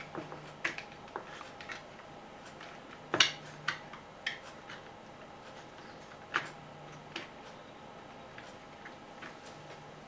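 Irregular small clicks and taps of a portable radio's plastic parts and wiring being handled during reassembly, the loudest about three seconds in.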